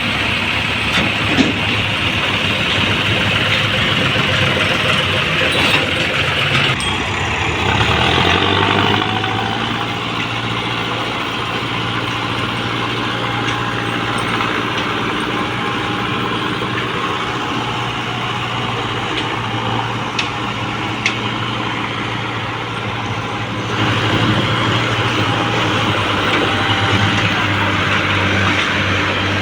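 Tractor engines running steadily while hauling heavy loads of sugar cane. The engine note changes abruptly about 7 seconds in and again about 24 seconds in.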